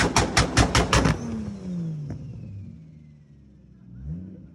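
Toyota Supra's big-turbo 2JZ inline-six, tuned on E85, firing a rapid string of loud exhaust backfire pops, about seven in a second, off a 2-step rev. The revs then fall away to a quieter idle, with one short throttle blip near the end.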